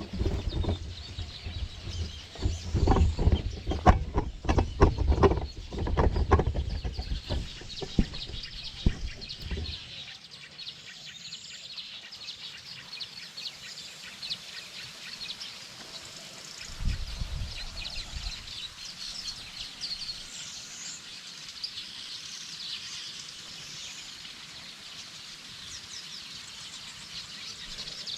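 Knocks and rustling of a camera being handled and set in place for the first ten seconds, with a brief bump later. Small birds keep up a chirping chorus throughout, with a few short calls standing out.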